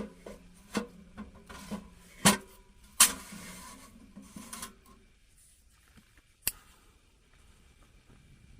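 Pressed-sawdust fuel briquettes being handled, with rubbing and scraping and a series of sharp knocks; the two loudest knocks come about two and three seconds in, and one more follows a few seconds later.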